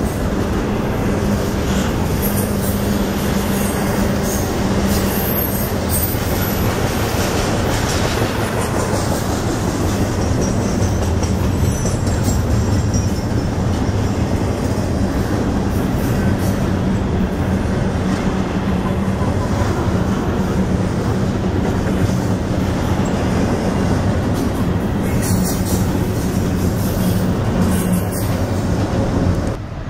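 Double-stack container freight train rolling past: a loud, steady rumble of steel wheels on the rails, with a thin high-pitched wheel squeal at times.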